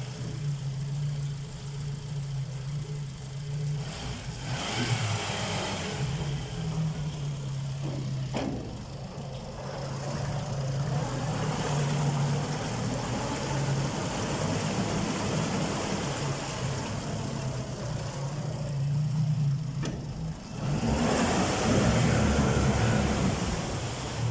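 Yamaha F80BET four-stroke four-cylinder outboard motor running, its note rising and falling with throttle changes and loudest in the last few seconds. A single sharp click a little past eight seconds.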